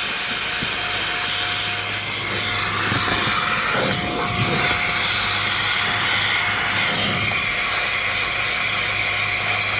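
HŌM cordless electric air duster and mini vacuum running steadily with a high hiss and a low hum. Its nozzle rubs and scrapes over the car's air vents, most plainly around the middle.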